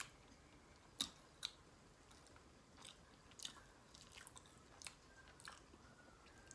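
Close-miked chewing and mouth sounds: scattered soft smacks and clicks at an uneven pace.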